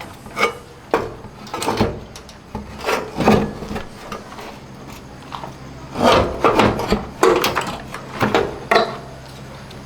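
Irregular knocks and short scraping rubs as washing machine parts are handled and worked on, in uneven clusters with the loudest near the middle and towards the end.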